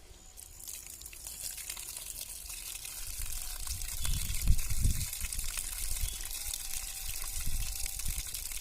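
Water pouring and splashing out of a 5-litre plastic can as it is tipped and emptied, growing louder after the start, with a few low knocks from the can being handled about halfway through.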